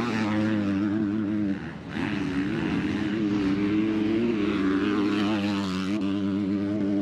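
Motocross bike engine running steadily at high revs, its pitch wavering slightly. It drops away briefly about a second and a half in, then picks up again.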